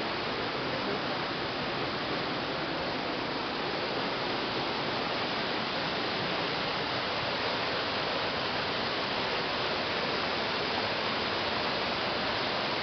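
A small waterfall's water rushing steadily, an even hiss with no change throughout.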